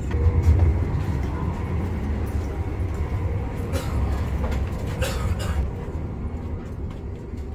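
ICE high-speed train running, a steady low rumble heard from inside the passenger cars, loudest about a second in and easing off near the end. A few light knocks are heard about four and five seconds in.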